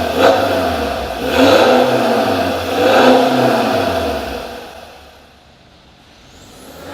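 BMW 320d F30's four-cylinder turbodiesel, breathing through an aftermarket PW Valvetronic valved exhaust, revved in three quick throttle blips about a second and a half apart. The sound then dies away for a couple of seconds and picks up again near the end.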